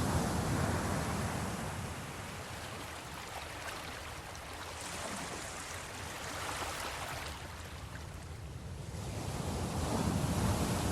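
Ocean waves breaking and washing in, a rushing surge that is loudest at the start and swells again near the end, with smaller surges between.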